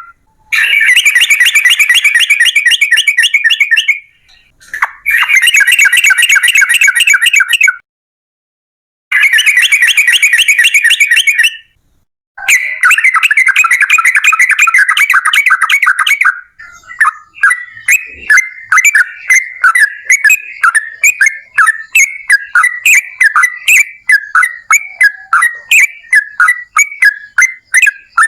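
Yellow-vented bulbul (trucukan) song played very loud. Long runs of rapid rolling notes come in blocks of a few seconds that start and stop abruptly. From about halfway through, it changes to a looser string of separate chirps, a few a second.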